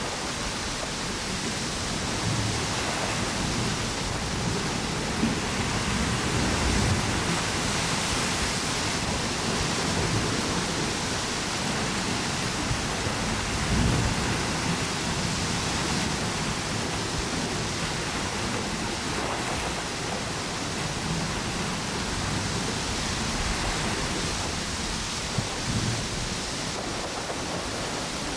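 Ocean waves washing on a beach under strong, gusty wind blowing through palm trees, a steady rushing noise with low rumbles swelling now and then.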